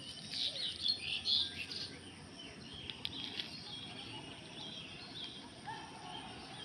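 Small birds chirping, with short call notes that are busiest in the first two seconds and then sparser, over a faint steady high-pitched insect drone.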